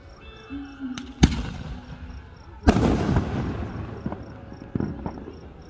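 Aerial fireworks shells bursting: two loud booms about a second and a half apart, the second followed by trailing crackle, then a few smaller pops.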